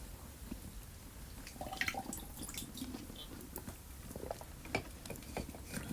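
Faint, scattered light clicks and taps of small objects being handled.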